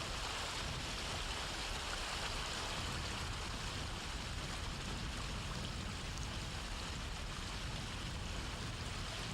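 Steady rush of flowing river water, an even hiss that does not change and cuts off suddenly at the end.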